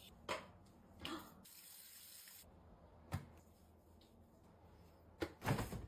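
Water running briefly at a sink, with several short knocks and clatters, the loudest pair near the end.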